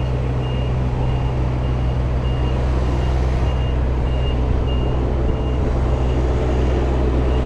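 Truck's diesel engine running as it reverses, its reversing alarm beeping about twice a second and fading out after about five seconds.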